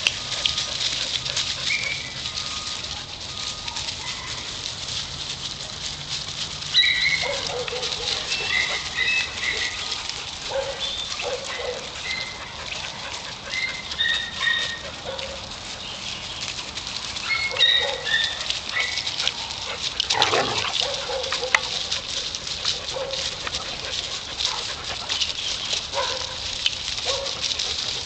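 Dogs barking and yipping in short, scattered bursts over a steady background hiss, with one sharp knock about twenty seconds in.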